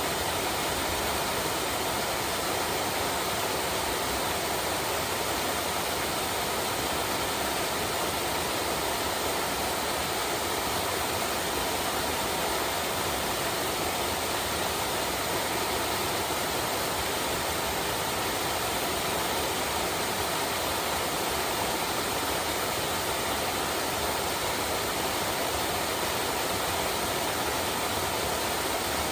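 A small stream flowing, a steady rush of water with no breaks or changes.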